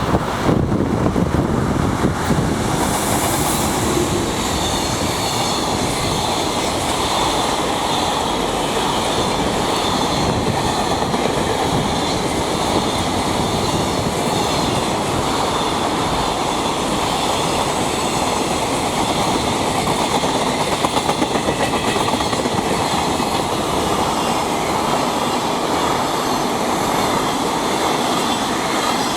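Freight train hauled by an EH500 electric locomotive rolling past, a steady, continuous rumble of wagon wheels on the rails with clickety-clack over the rail joints and a little wheel squeal. It is loudest and choppiest in the first couple of seconds.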